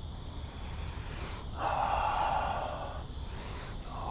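A person breathing forcefully through the mouth during a qigong breathing form: two long, hissing breaths, each led in by a short, sharp intake, the second starting near the end.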